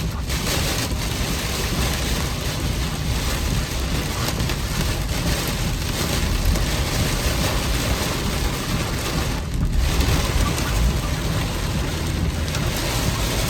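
Heavy rain pelting a car, heard from inside the cabin as a steady dense hiss with a low rumble underneath.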